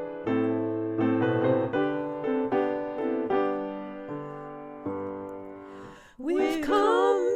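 Piano playing a gospel hymn, chords struck one after another and left to ring. About six seconds in, a singer comes in over it, holding notes with vibrato.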